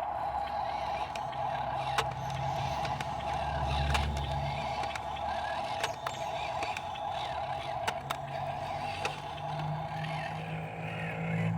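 Dump truck engine running with a steady high whine over the low engine hum, with scattered sharp clicks and rattles; the engine grows louder near the end.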